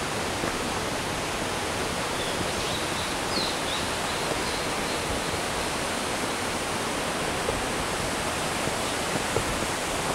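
Steady rushing of falling water from a small waterfall and its mountain stream.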